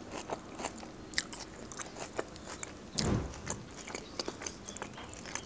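Chewing a mouthful of Caesar salad: crisp lettuce crunching in many small, wet crackles. There is one louder, deeper thump about three seconds in.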